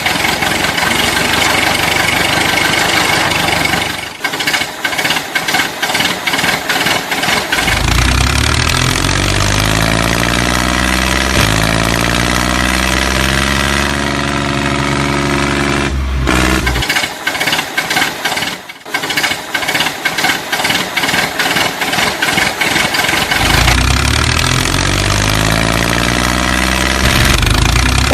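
An engine running steadily with a knocking beat, its pitch shifting up and down in places. Twice it breaks into a stretch of rapid clattering clicks.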